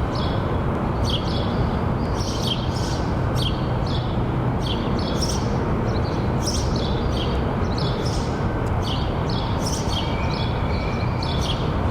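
Birds chirping in short high calls, repeated one to two times a second, over a steady background rumble.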